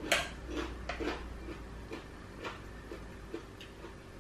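Close-up eating sounds: chewing and mouth clicks, a run of short crisp clicks at uneven spacing, about two to three a second.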